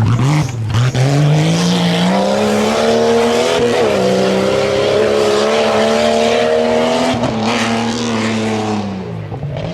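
Off-road competition 4x4 truck's engine revving hard under load: the revs dip and climb back up in the first two seconds, hold high for about five seconds, then drop off near the end.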